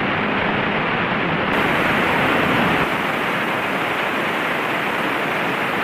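Steady cabin noise of a Mooney single-engine piston airplane in flight shortly after takeoff: engine and airflow blended into a dense, even hiss.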